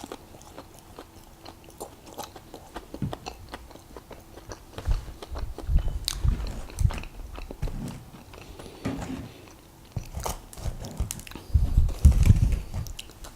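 Close-miked biting and chewing of a Krispy Kreme doughnut, with many small mouth clicks; the loudest bouts of chewing come about halfway through and again near the end.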